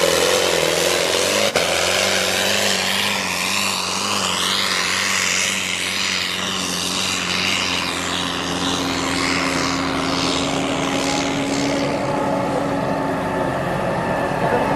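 Competition pulling tractor's engine running hard under full load: a loud, steady engine drone with a high whine that rises and falls above it.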